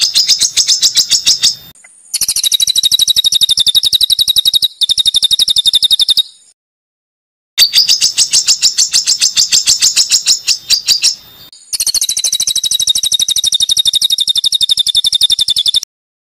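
Songbird tutor recording of harsh, rapid-fire trills: very fast repeated high notes in phrases of a few seconds, alternating between a lower trill and a higher, buzzier one. The phrases start and stop abruptly with dead silence between them, as in an edited, looped recording.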